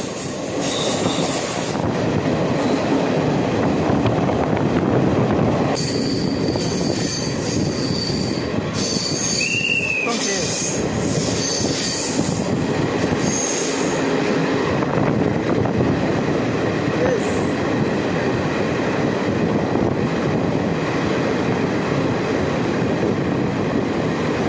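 Passenger train running along the track with a steady rumble of wheels on rails. High-pitched wheel squeal rises over it from about six seconds in and fades a few seconds before the end.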